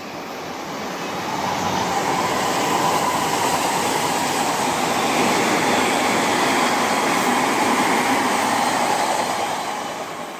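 Odakyu Line electric commuter train, an 8000-series set coupled to a 3000-series set, running past on the rails. Its wheel and rail noise builds over about two seconds, holds steady, then fades near the end.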